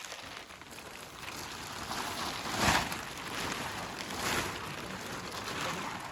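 Rain falling steadily, with two louder rustling bursts a second and a half apart.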